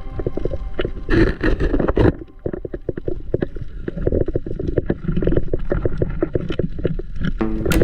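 Boat under way on the sea, with motor and water noise and many irregular knocks. Music comes in near the end.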